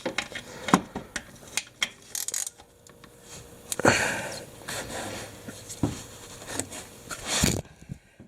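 Scattered clicks, knocks and scraping of hand tools and parts being handled, with louder clatters about four seconds in and again near the end.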